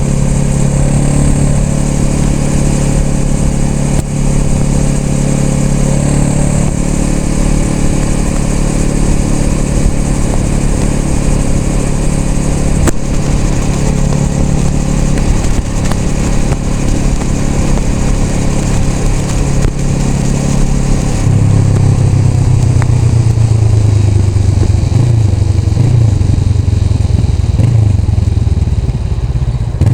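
Honda Rebel 500's parallel-twin engine running under way, with wind rushing past the helmet microphone. About two-thirds through, the wind hiss fades and the engine's low note grows louder and uneven.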